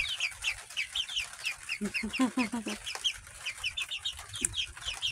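Young chickens peeping over and over in short, high, falling chirps, several a second, the kind of insistent peeping the keeper reads as a bird in distress. A few lower hen clucks come in about two seconds in.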